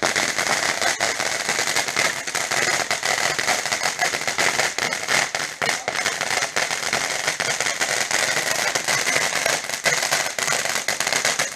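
A lit ground firework fizzing and crackling steadily, a dense unbroken shower of small crackles with no big bangs.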